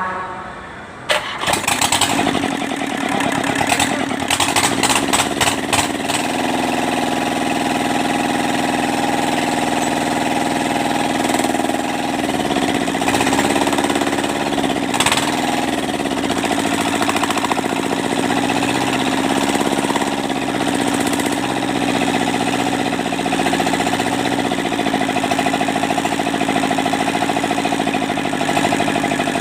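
Kubota Z751 two-cylinder diesel engine catching and starting about a second in. It runs unevenly for a few seconds, then settles into a steady run. Around the middle, its speed sags and recovers twice.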